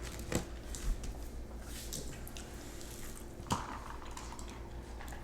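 Quiet eating sounds: a few soft clicks and wet mouth noises of spicy chicken nuggets being chewed and handled, two sharper clicks standing out.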